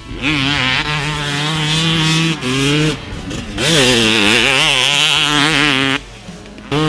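Yamaha YZ250 two-stroke motocross engine being ridden, revving up and down as the throttle is opened and chopped. The sound drops off briefly about two and a half seconds in, again around three seconds in, and once more near the end.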